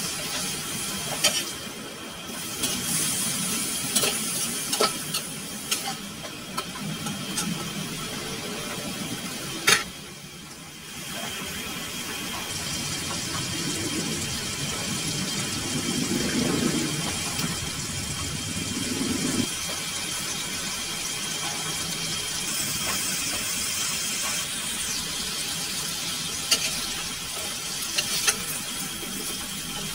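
Chicken pieces sizzling in a metal wok, with a metal ladle scraping and clinking against the pan as they are stirred; one sharp clank about ten seconds in.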